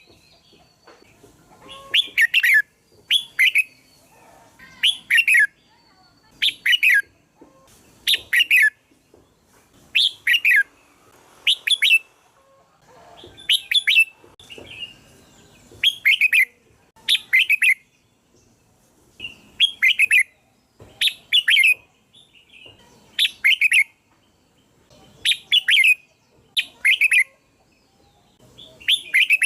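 Red-whiskered bulbul singing: short, bright chirping phrases of about half a second each, repeated every second or two, sometimes in quick pairs.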